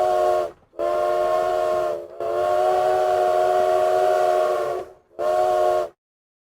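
Steam train whistle blowing four blasts of a steady chord over a breathy hiss: a short blast, a longer one, a long held one, then a short one.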